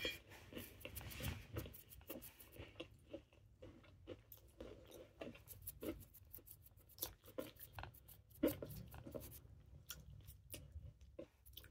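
A person chewing crispy southern-fried chicken wings with the mouth close to the microphone: irregular crunches, a few a second, one sharper crunch about eight and a half seconds in.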